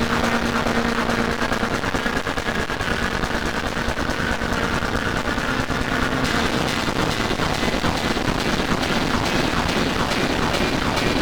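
A dense electronic mashup of many distorted band tracks played on top of each other: a loud, fast, rattling noise with a few held tones underneath.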